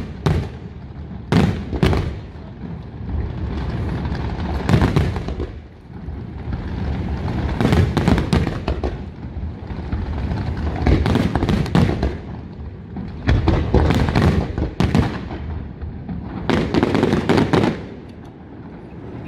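Aerial fireworks display: shells bursting in repeated volleys of sharp bangs and crackle, about six clusters a few seconds apart, easing off near the end.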